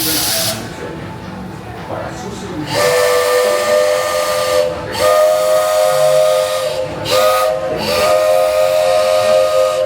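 Steam locomotive's chime whistle blowing several tones at once, in four blasts: two long, a short one, then another long one, after a short hiss of released steam at the start.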